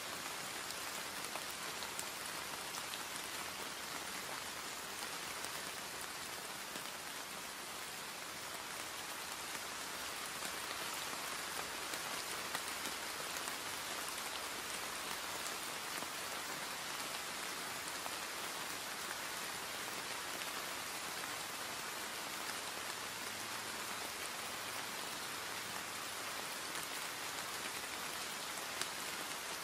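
Steady heavy rain falling on hard surfaces, a dense even hiss with scattered drop patter.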